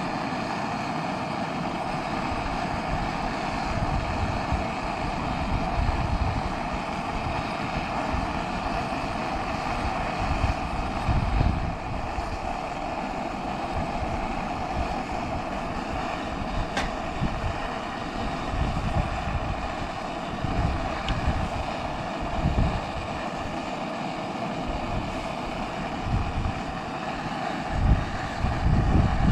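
Steady roaring hiss of a high-output Primus gas burner running at full flame, with irregular gusts of wind buffeting the microphone.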